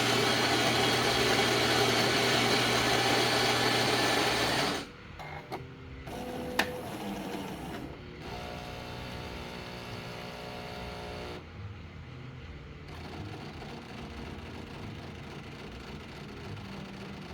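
Jura E8 fully automatic coffee machine running through its cycle. A loud, steady mechanical run lasts about five seconds and stops abruptly. Softer knocks and a sharp click follow, then a motor whir for about three seconds, and a quieter steady hum to the end.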